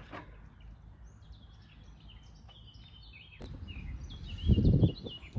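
Birds chirping in the background over a quiet outdoor hush, with a sharp click about three and a half seconds in and a brief loud low rumble near the end. No engine is running.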